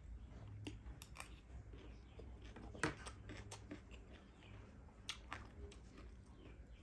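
Close-miked chewing of chatpate, a spicy puffed-rice snack, with faint scattered crunches and mouth clicks. One sharper click comes a little under three seconds in.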